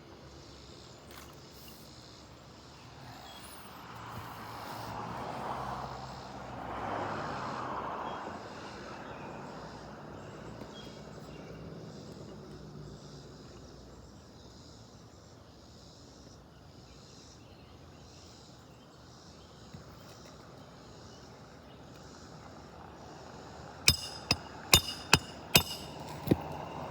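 Quiet outdoor background that swells into a rush of noise for a few seconds, then six sharp hammer knocks in quick succession near the end, struck on asphalt roof shingles.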